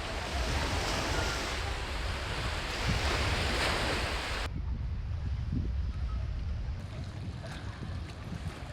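Sea waves washing onto a beach, with wind rumbling on the microphone. The loud, full wash drops off suddenly about four and a half seconds in, leaving a quieter wash and wind.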